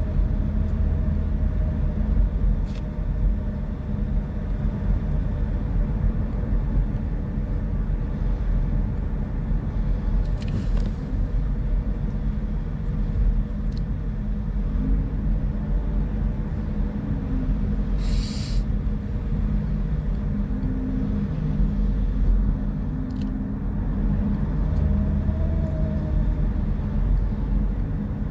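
Vehicle driving on the road: a steady low engine and road rumble, with two short hisses about ten and eighteen seconds in.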